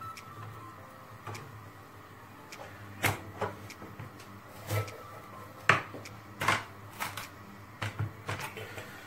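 Irregular clicks and knocks of kitchen utensils and dishes being handled, about ten sharp separate knocks starting about three seconds in, over a low steady hum.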